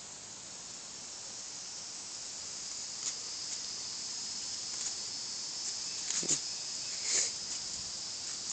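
Steady high-pitched drone of insects such as crickets, with a few short sharp calls breaking through about three, six and seven seconds in.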